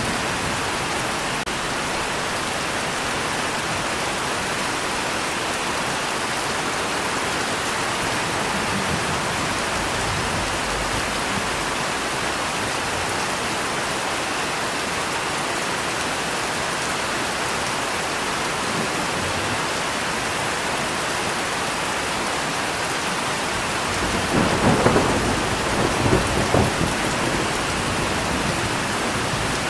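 Steady heavy rain falling, with a rumble of thunder a little past the middle that swells for about three seconds and fades.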